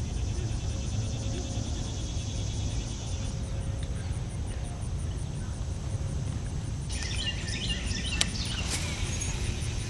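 Outdoor pond-side ambience: a steady low rumble with a faint, high, steady insect buzz, and birds chirping from about two-thirds of the way through, with a sharp click near the end.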